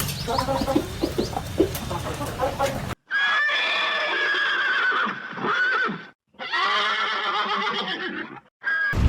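Horse whinnying twice, each a long quavering neigh of about two to three seconds with a short gap between. Before them, hens clucking, which cut off abruptly about three seconds in.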